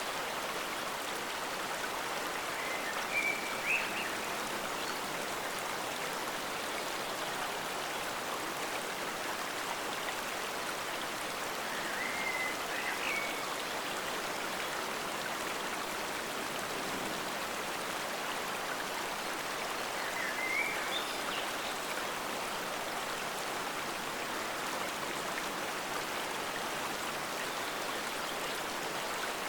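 Forest stream flowing steadily, an even rushing hiss of running water. A short high call rises above it three times, about eight seconds apart.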